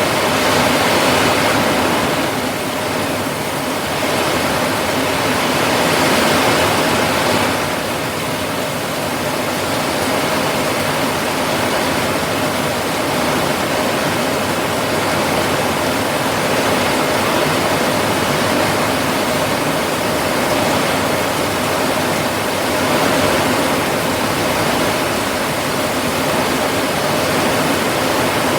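Steady rain falling, a dense, even hiss that swells a little a few times.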